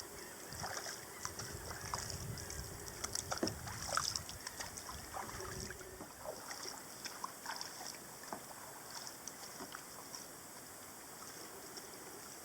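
Kayak paddle strokes: the blades of a composite paddle dipping into the water with small splashes and drips, busier in the first half and quieter after about six seconds.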